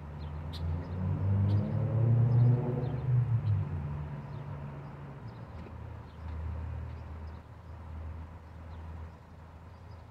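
A vehicle engine swells to a peak about two and a half seconds in, its pitch climbing, then settles back to a lower steady hum.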